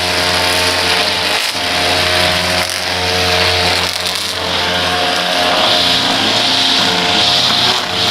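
Small petrol engine of lawn-care equipment running steadily at high speed.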